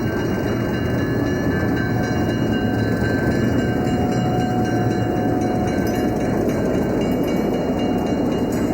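Baldwin S12 diesel switcher locomotive running steadily: a loud, even engine rumble with a thin steady tone above it.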